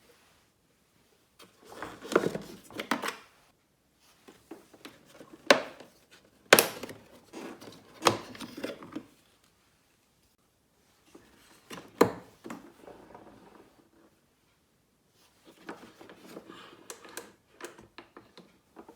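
Plastic body parts of a Bosch Zoo'o ProAnimal vacuum cleaner being handled: sharp clicks and knocks with scraping and rubbing, in several bursts separated by short pauses.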